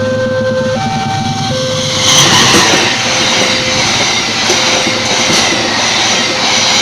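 A train passes close by with a loud rushing rumble and a few wheel clacks, rising about two seconds in. Under it an electronic two-tone warning signal alternates between two notes, covered once the train arrives.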